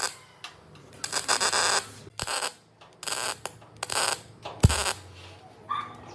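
Metalworking noise: short, repeated bursts of scraping on metal with a sharp knock about two seconds in and a heavier one near the end.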